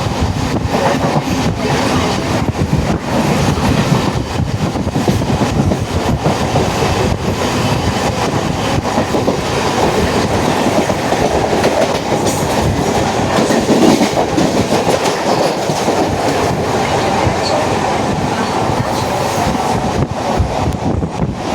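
Mumbai suburban local train running at speed, heard from inside the carriage: a continuous rumble of steel wheels on the rails with a steady clickety-clack over the track.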